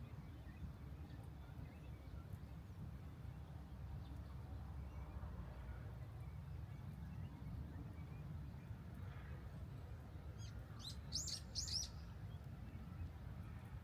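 A bird chirping: a quick run of about five high, sharp notes a little over ten seconds in, over a steady low rumble.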